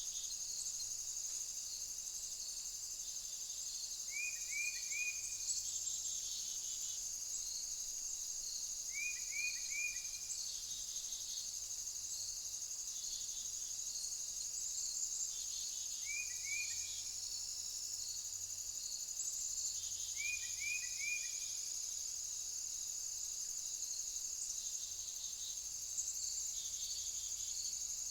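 Steady, high-pitched chorus of crickets. Every few seconds it is joined by a quick group of two or three short falling chirps.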